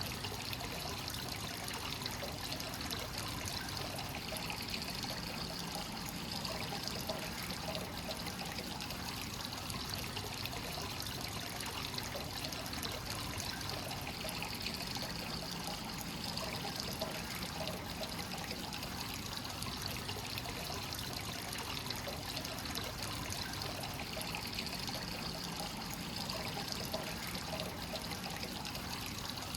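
Hot-spring water pouring and trickling continuously into a bath from a free-flowing source: a steady, unbroken water sound.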